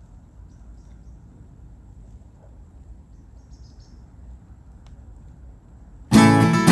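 A faint, steady low background hum, then near the end acoustic guitar music starts abruptly and loudly.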